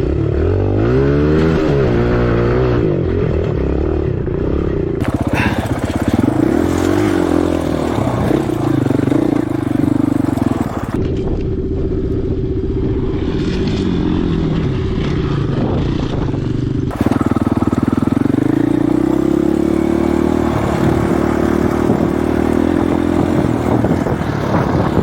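Single-cylinder four-stroke dirt bike engine revving up and down under load on a climb, its pitch rising and falling again and again, with steadier stretches in between.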